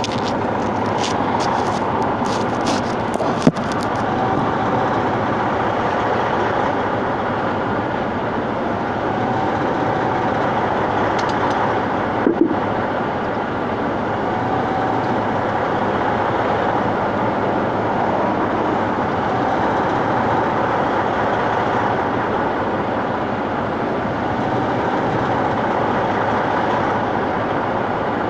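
A truck driving, with steady road and tyre noise. There are a few clicks in the first few seconds and a short knock about twelve seconds in.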